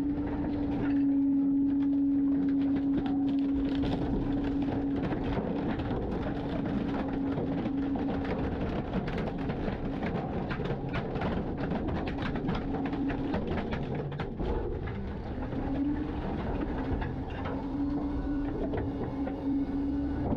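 Garbage truck running through its packing cycle, with a steady whine that is strongest in the first eight seconds and then comes and goes, over continuous rattling and clanking.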